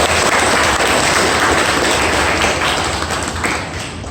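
Audience applauding: a dense clatter of many hands clapping that tapers off near the end.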